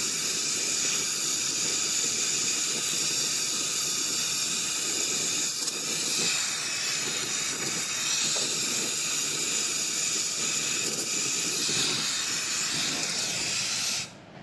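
Pressurised nitrogen hissing steadily as it is blown through a chest freezer's cooling coil to flush out a blockage; the hiss cuts off suddenly near the end.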